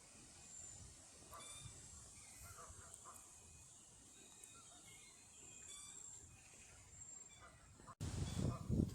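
Faint bird calls and chirps scattered over quiet outdoor background noise. Near the end the sound cuts suddenly to a much louder low rumble.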